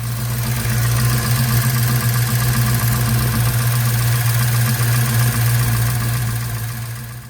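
The 1956 Chevy Bel Air's 307 small-block V8 idling steadily, a deep even drone with a fast ticking from the valve train, fading out near the end.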